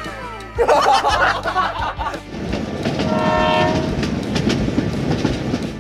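Train sounds: a loud rush of noise just after half a second in, then a steady rumbling, clattering running noise with a horn sounding for just under a second, about three seconds in.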